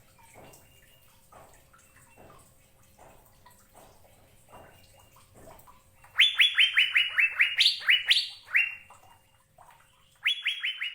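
Asian fairy-bluebird (cucak biru) singing: fast runs of sharp up-flicked whistled notes that step down in pitch. Softer notes come first, then a loud run from about six seconds in for over two seconds, and another just before the end.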